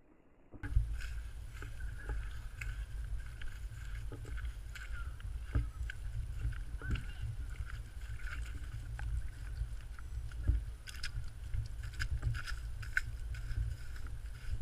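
Wind buffeting the microphone as a steady low rumble, starting suddenly about half a second in, with scattered sharp clicks and crunches over it.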